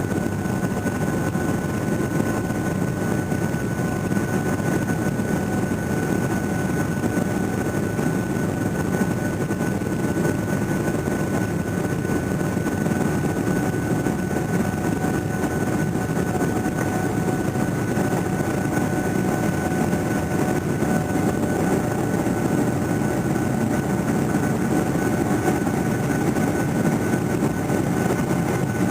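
Boeing 737-800 cabin noise: the CFM56 jet engines and airflow heard from inside the cabin as a steady low rumble with a thin, steady high whine over it.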